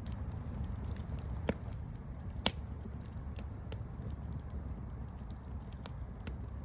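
Campfire burning with a low steady rumble and scattered sharp crackles and pops, the loudest pop about two and a half seconds in.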